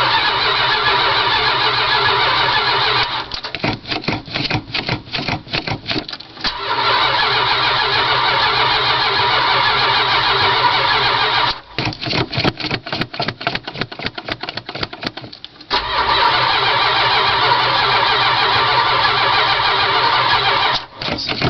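A 1978 Dodge Ramcharger's 440 big-block V8 is cranked by its starter in three long, steady bursts of about three to five seconds each, without firing: a cold start with no working choke. Between the bursts there are a few seconds of rapid, irregular clacking.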